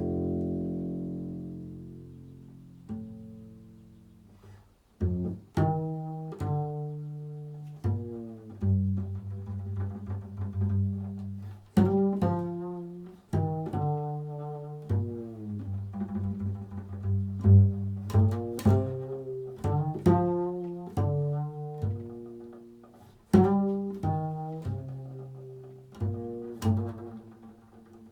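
Improvised solo instrumental music on a low-pitched plucked string instrument. One long note rings out and fades over the first few seconds, then a run of separate plucked notes and short phrases follows, each one fading after it is struck.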